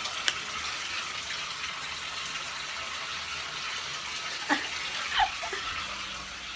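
Bathtub faucet running steadily as the tub fills, with a sharp click near the start and a few brief knocks about two-thirds of the way through.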